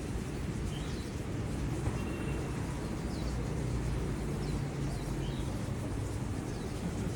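A steady low rumble with a small bird chirping over it, short high notes about once a second.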